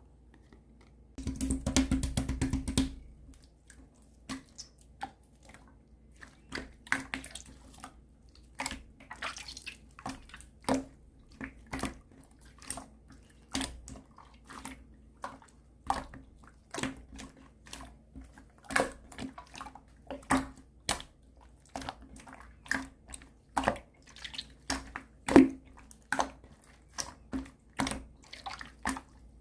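Clear slime being mixed and pressed by hand. About a second in there is a dense sticky crackle for about two seconds, then a long run of sharp wet pops and clicks, irregular, one or two a second.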